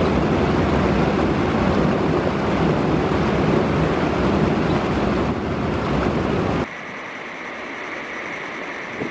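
Loud, steady rushing noise of wind buffeting the camera's built-in microphone. About two-thirds of the way through it cuts off abruptly to a quieter outdoor ambience with a faint, steady high tone.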